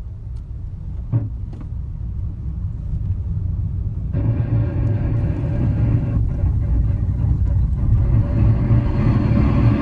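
Honda N-ONE under way with a low rumble that grows louder. About four seconds in, a steady metallic groan of several held tones sets in and keeps on: the brake noise this car makes when braking on a downhill, whose cause the dealer could not find even after replacing the rotors and pads.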